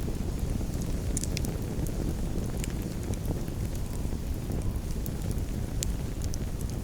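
Wood campfire burning: a steady low rumble with sharp crackles and pops scattered throughout.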